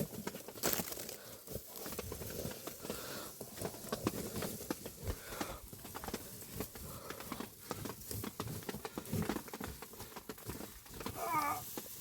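Irregular crunching, rustling and scraping with many short sharp clicks, like material being handled or dug through. About eleven seconds in, a brief wavering pitched call rises above it.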